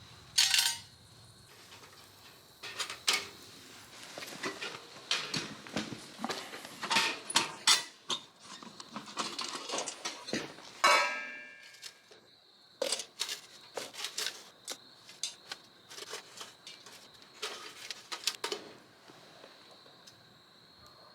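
Thin metal parts clinking and clattering as they are handled, in irregular bursts, with one longer ringing clank about halfway through.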